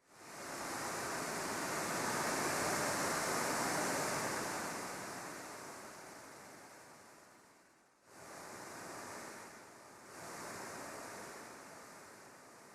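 A rushing noise that swells in, slowly fades, cuts off abruptly about eight seconds in, then comes back in two smaller swells.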